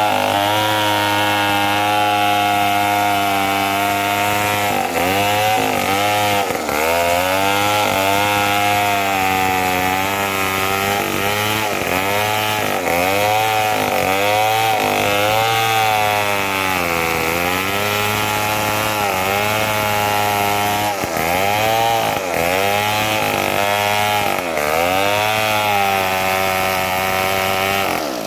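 Two-stroke chainsaw running at high revs while cutting mahogany wood. From about five seconds in, the engine pitch dips and recovers again and again as the chain bogs under the load of the cut.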